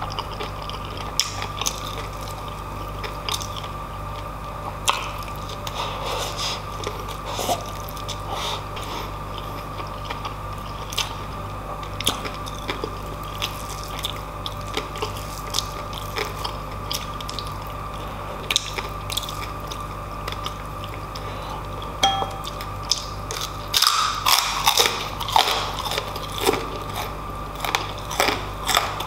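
Close-miked chewing and crunching of crispy fried pork belly and rice, with scattered wet mouth clicks over a steady low hum; the crunches grow louder and more frequent near the end.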